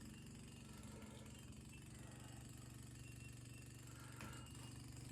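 Quiet, steady low mechanical hum with a fine rapid pulse.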